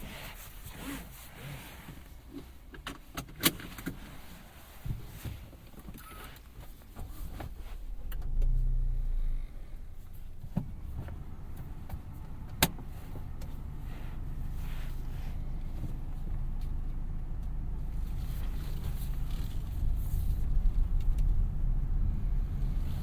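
2017 Mazda CX-3's 2.0 SkyActiv-G four-cylinder petrol engine heard from inside the cabin. A few sharp clicks come first, then the engine starts about eight seconds in with a brief flare. It settles into a steady low running that grows louder near the end.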